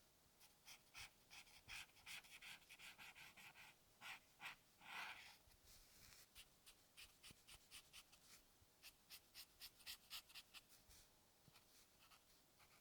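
Quiet, quick, short strokes of a drawing tool scratching across paper as a sketch is made, coming in dense clusters, with one longer rub about five seconds in.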